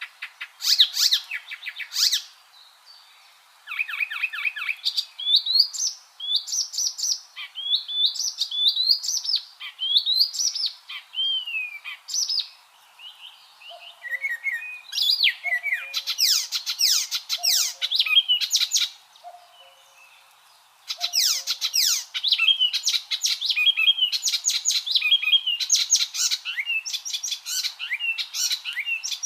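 Icterine warbler singing: a fast, varied song of rapid chattering runs, harsh notes and short gliding whistles, delivered in phrases broken by a few short pauses.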